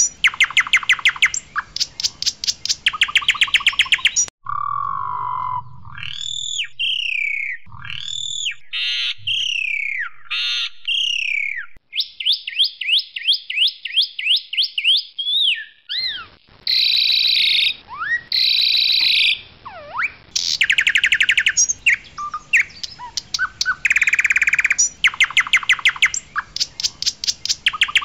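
Asian pied starling (jalak suren) singing a loud, varied song: fast rattling trills, whistled notes that slide up and down, a quick run of repeated notes and harsh scratchy phrases.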